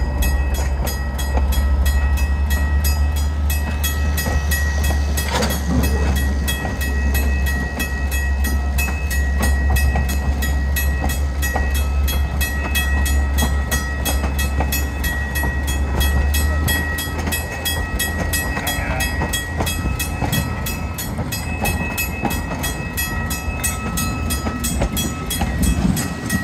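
Railroad cars rolling slowly past at close range: a steady low rumble with thin, steady high-pitched squeals from the wheels, and one louder clank about five seconds in. The low rumble eases off about two-thirds of the way through.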